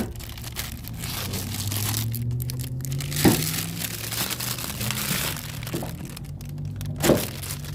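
Old rubber bushing being forced out of a motorcycle rear shock's mounting eye: scraping and crinkling, with two sharp knocks, one about three seconds in and one near the end, over a steady low hum.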